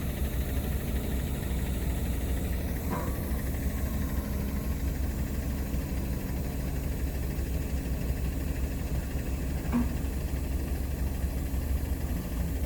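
A 20-tonne road roller's diesel engine running steadily at an even, low speed. Two faint brief ticks come about three seconds and about ten seconds in.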